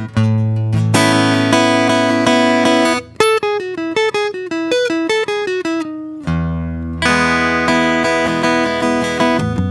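Solo acoustic guitar playing softly and unhurriedly. Picked single-note lines alternate with fuller, ringing chords, about a second in and again about seven seconds in.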